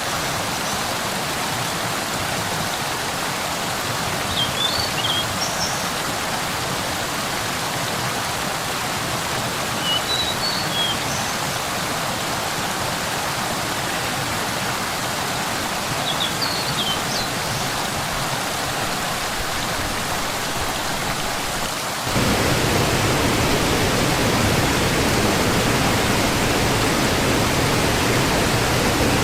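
Steady rush of falling water from a waterfall, with a bird giving short high chirps every few seconds. About 22 s in, the rush turns suddenly louder and deeper.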